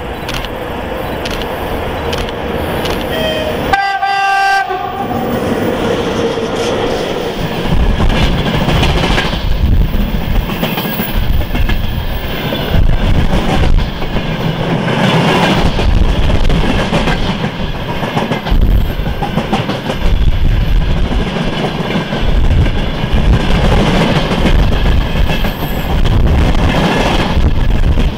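Freight train passing close by: a short locomotive horn blast about four seconds in, then the rumble and clatter of the wheels over the rails, growing louder as the train comes up and staying loud.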